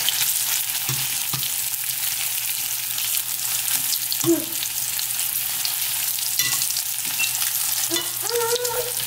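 Breaded ravioli sizzling and crackling steadily as they shallow-fry in hot oil in a stainless steel skillet. A few light clicks come from the metal tongs touching the pan as the pieces are turned.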